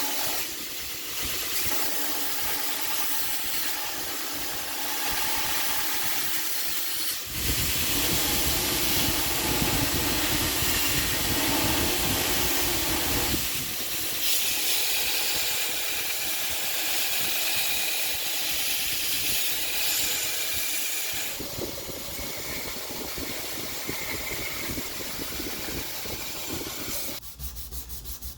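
Abrasive grinding and sanding of a steel knife blade, a steady rasping hiss that changes character abruptly several times.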